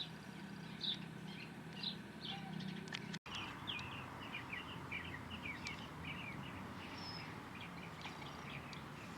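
Small birds chirping: short high notes about once a second, then, after a brief dropout about three seconds in, a quicker run of chirps.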